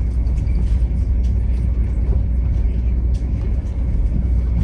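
Passenger train rolling along the track: a steady low rumble with scattered light clicks and rattles.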